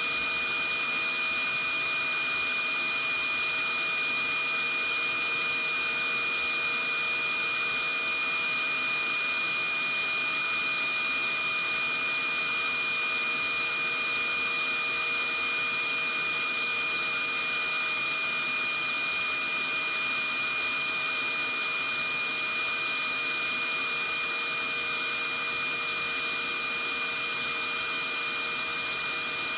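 Vacuum cleaner running steadily, a constant rushing hiss with a high motor whine that does not change.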